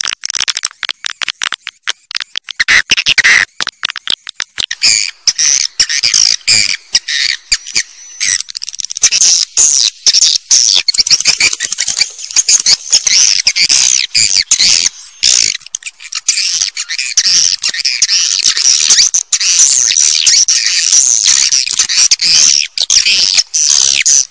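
Swiftlet calls: loud, dense high-pitched chattering twitters, with rapid trains of clicks in the first few seconds giving way to continuous twittering. A swiftlet lure recording, the kind played to draw swiftlets to a nesting house.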